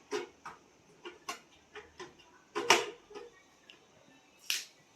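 Scattered light clicks and knocks from plastic fridge parts being handled, the loudest about halfway through and another near the end.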